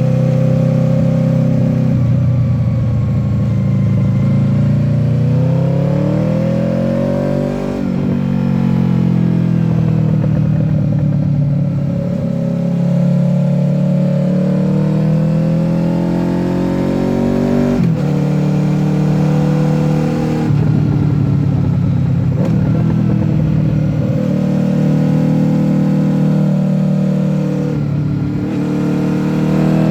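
Honda VFR800F's V4 engine with VTEC, through an SC-Project exhaust, revving up and falling back as the bike is ridden through bends. The note rises steeply and then breaks off sharply about a quarter of the way in, with more abrupt breaks about two thirds through and near the end.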